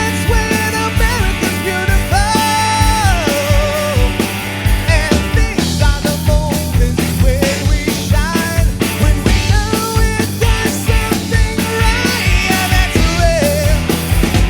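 Rock band playing a song, with a steady drum beat, bass, and a bending, wavering lead melody line over them.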